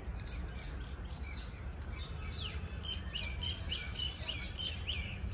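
Small birds chirping in short, falling notes, coming thick and fast from about halfway through, over a steady low rumble.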